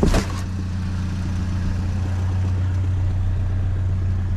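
Truck engine idling steadily with a knock in it. A brief sharp sound comes right at the start.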